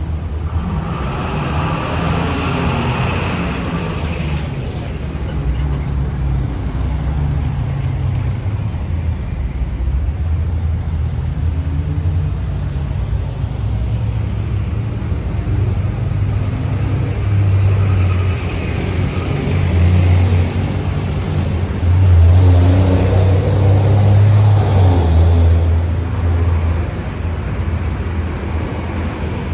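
Road traffic on a busy city avenue: motor vehicles passing with a steady low rumble that swells louder about two thirds of the way in as heavier traffic goes by.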